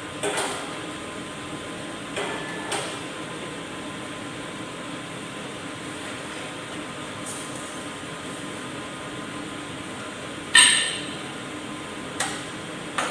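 Several sharp metallic knocks or clinks, the loudest with a short ring about ten and a half seconds in, over a steady hum.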